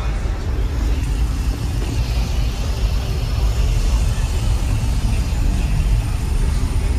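Scion xB's engine idling: a steady low rumble with no changes in speed.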